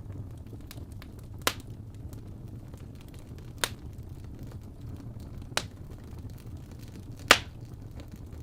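Fireplace fire burning with a steady low rumble, four sharp pops about two seconds apart, the last one loudest, and faint crackles in between.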